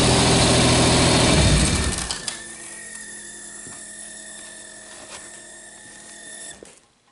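1986 Pontiac Firebird's 2.8-litre V6 running, then stopping about two seconds in. A faint, steady, high squealy whine carries on for about four more seconds and then cuts off; the owner takes it for the fuel pressure regulator or fuel pump.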